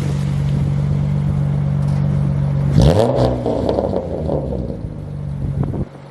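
BMW E36 M3's S50 straight-six idling through a near-straight-piped exhaust (cat, resonator and muffler deleted, stock muffler gutted), given one quick throttle blip about three seconds in that rises and falls in pitch with a few crackles as it comes off throttle. The sound drops away sharply near the end.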